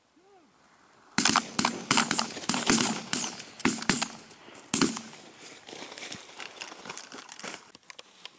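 Loud, close crinkling and crackling rustle that starts about a second in, is densest for about four seconds, then thins out to scattered crackles.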